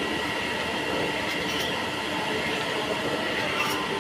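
A drill running steadily, boring a hole in a metal gear, with an even whine of several held tones.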